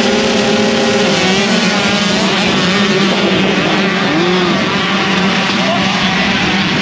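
Several motocross bike engines running at once on the track, their pitches rising and falling as riders rev and shift.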